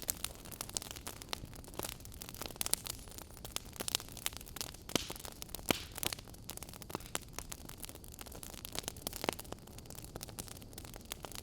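Wood fire crackling in a fireplace: irregular sharp pops and snaps over a steady soft hiss, with a few louder pops about five, six and nine seconds in.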